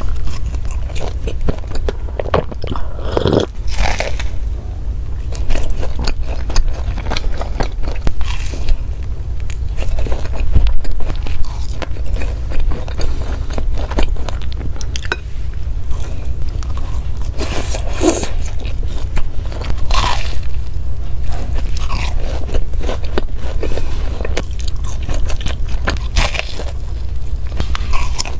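Close-miked biting and chewing of crunchy food, dense crackly crunches with a few louder bites spread through.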